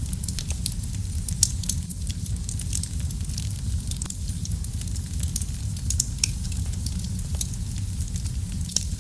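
Wood fire crackling in a fireplace: a steady low rumble of flames with frequent sharp pops and snaps scattered irregularly throughout.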